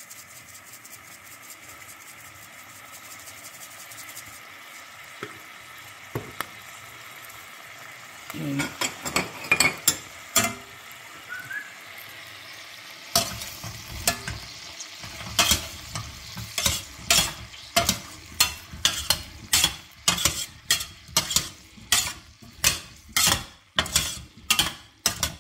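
Baby potatoes sizzling in garlic butter and olive oil in a pan. From about halfway, a utensil stirs them with regular strokes, about two a second, knocking against the pan.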